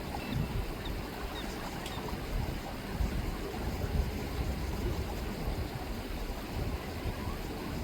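River water rippling steadily, over a low, uneven rumble.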